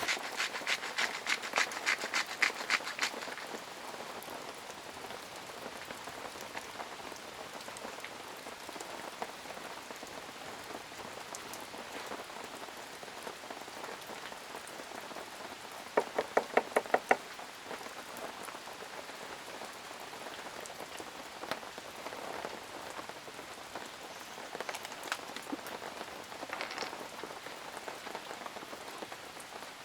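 Steady rain falling and pattering on surfaces. It is broken by short runs of rapid ticking near the start and again about halfway through.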